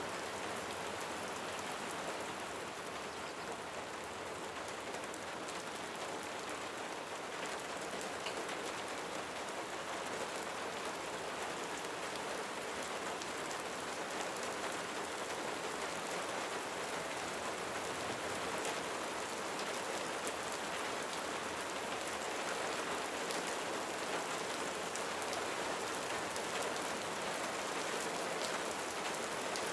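Steady rain falling on a roof: a dense, even patter of drops.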